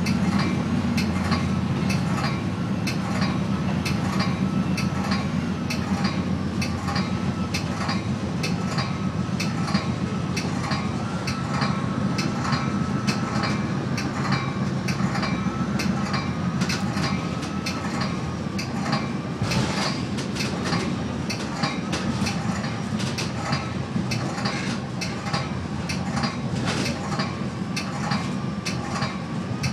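Metra bilevel commuter train heard from inside its Nippon Sharyo cab car, running at speed: a steady low rumble of the wheels on the rails, with frequent clicks and knocks as the wheels pass over the track. A thin steady whine runs through the middle, and there is a louder knock about two-thirds of the way in.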